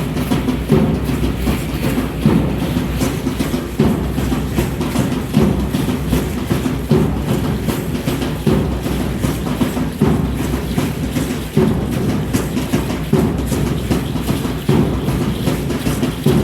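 Aztec dance drumming: a steady beat of low, heavy drum strokes, the strongest coming about every second and a half, with lighter strokes between them.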